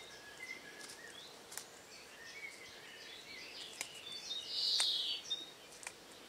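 Birds chirping outdoors in short high calls, with one brief louder call about five seconds in and a few faint clicks.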